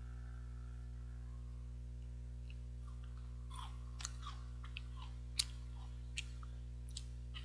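Chewing a 21-grain chocolate bar: from about three seconds in, a string of short, sharp clicks and crunches from the mouth, the loudest a little past halfway, over a steady low electrical hum.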